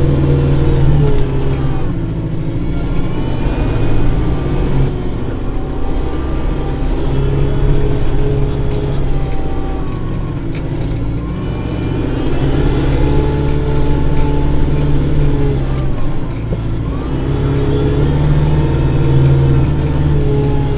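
Kubota tractor's diesel engine running steadily while clearing snow, its note dipping and picking back up several times as the load changes.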